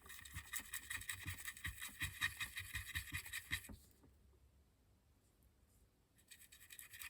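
Small brush scrubbing dry black weathering pigment into a model locomotive's grill: a quick run of short, faint scratchy strokes that stops a little under four seconds in and starts again near the end.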